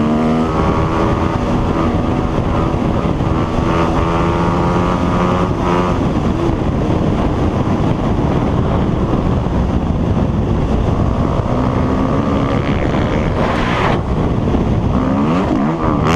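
Motocross bike engine running at speed, its pitch rising and falling near the end as the throttle changes, with wind buffeting the microphone.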